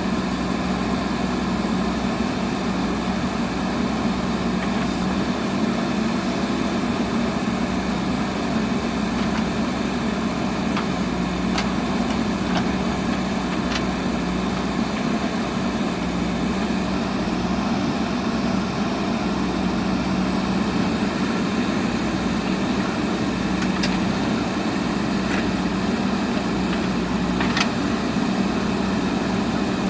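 Diesel engine of a JCB backhoe loader running steadily at an even speed, with a few short clicks over the engine sound.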